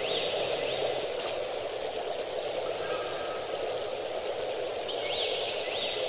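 Outdoor forest ambience: a steady rushing noise, with a few quick chirps near the start and again near the end, and a brief bright ping a little past a second in.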